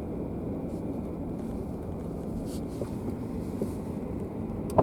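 Car engine and road noise heard from inside the cabin while driving slowly through a parking garage: a steady low rumble, with one brief sharp click near the end.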